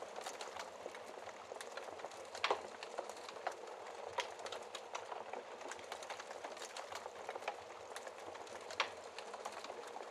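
Wood fire burning in a fireplace: a steady hiss of flames with irregular crackles and snaps throughout, including a couple of louder pops about two and a half seconds in and near the end.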